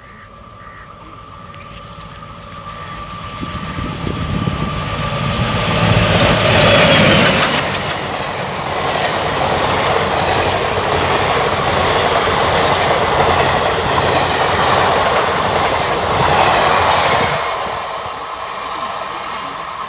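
An Indian Railways express train with blue ICF coaches passing at speed. The noise builds as the train comes in and peaks as the front passes about six to seven seconds in. The coaches then run by in a steady rush of wheels on rails, which fades near the end as the tail goes away.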